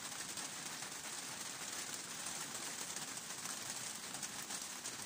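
Steady light rain falling on leaves and paving, an even hiss, with birds chirping faintly.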